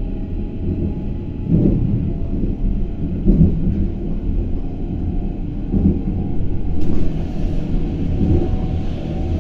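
Berlin S-Bahn class 481 electric multiple unit running on the track: a steady low rumble with faint steady tones above it, swelling a little every two seconds or so.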